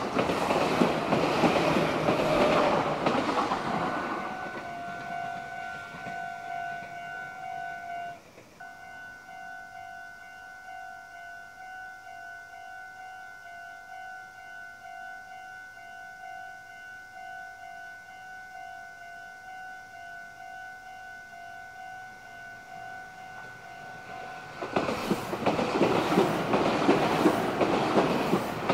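A railway level-crossing alarm rings in steady, repeated electronic tones throughout and drops out briefly about eight seconds in. A Meitetsu electric train rushes past close by at the start, and near the end another train arrives and passes with loud wheel clatter.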